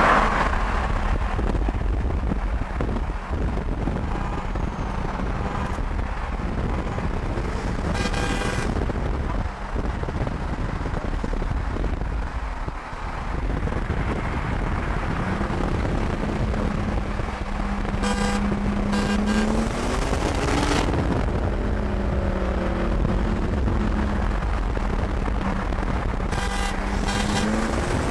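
Engine and road noise of a car driving at speed, heard from inside, with the engine tone rising and falling a little around two-thirds of the way in. Short car-horn toots sound about a quarter of the way in, around two-thirds in, and again near the end.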